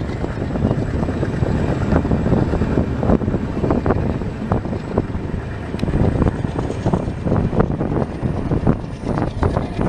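Passenger coach running on the rails, heard from its open doorway: steady rumble of the wheels with irregular knocks and clatter over rail joints, and wind buffeting the microphone.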